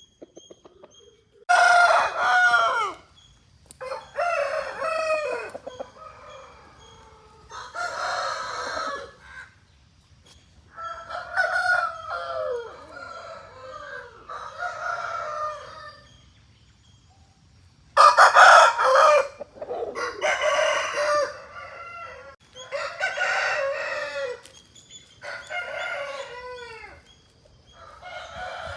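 Aseel roosters crowing over and over, about ten crows one after another, each lasting a second or two.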